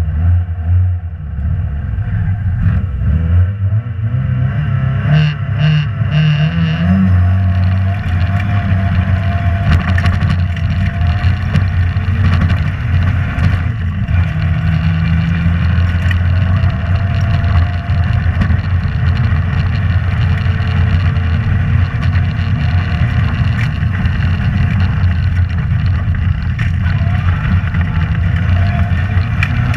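Rally car engine pulling hard, its pitch climbing for a few seconds early on and then held at high revs under sustained acceleration.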